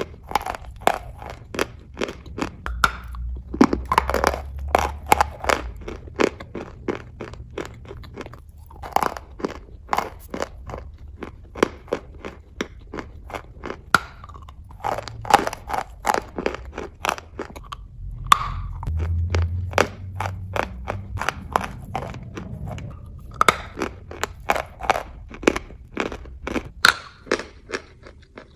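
Close-up chewing of hard, dry chalk: dense runs of sharp, brittle crunches as the pieces are bitten and ground between the teeth, in bursts with brief pauses between mouthfuls.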